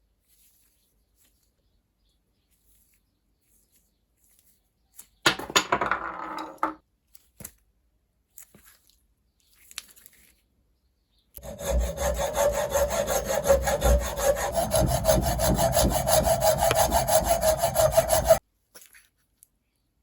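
A saw cutting a rosewood block for the handle, in rhythmic strokes. A short bout of sawing comes about five seconds in, then steady sawing runs for about seven seconds and stops abruptly.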